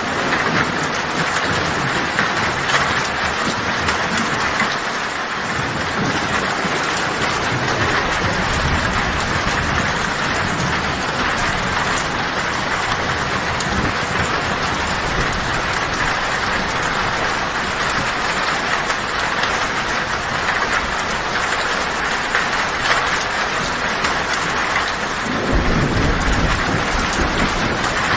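Heavy rain drumming steadily on a tin roof, with low thunder rumbling in the background. A louder, deeper rumble of thunder comes in near the end.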